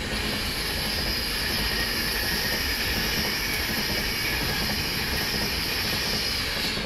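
A train passing at speed: a steady, high-pitched rushing noise with no break.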